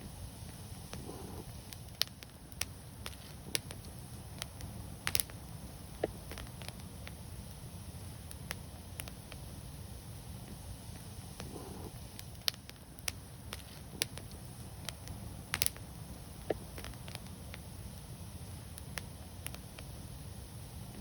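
Wood fire burning, with irregular sharp pops and crackles over a steady low rush of flame.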